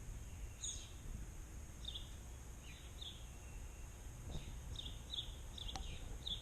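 Small birds giving short, high chirps, some falling in pitch, repeated every half second to a second over a steady low rumble.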